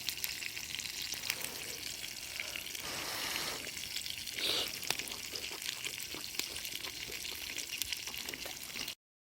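Crackling and sizzling of cooking over a wood campfire: a steady hiss full of small pops, swelling briefly in the middle. It cuts off suddenly near the end.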